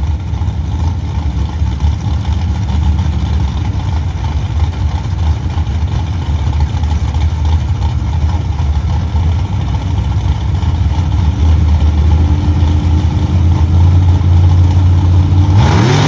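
Drag race car engines idling at the starting line with a steady low rumble that grows louder, then revving with a sharply rising pitch near the end.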